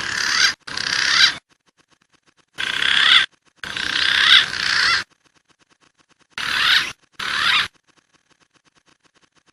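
Wild pigeon calls from a bird-lure recording, used to attract pergam, walik and punai. The calls come as three pairs of short, harsh, wavering bursts, each pair about one to two seconds long, with sudden starts and stops and silent gaps between them.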